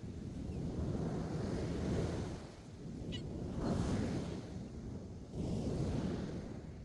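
Ocean surf breaking on a beach, swelling and easing every couple of seconds, with wind buffeting the microphone.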